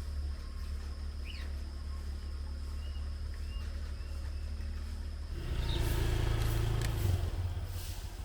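Motorcycle engine running low and steady, with birds chirping and a steady high insect drone. About five seconds in, the engine grows louder for a couple of seconds, then eases off.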